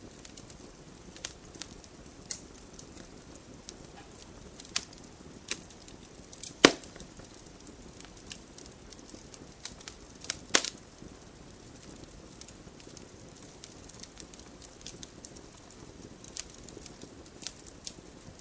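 Wood fire burning in a fireplace: a soft hiss with scattered crackles, two louder pops about a third of the way in and near the middle.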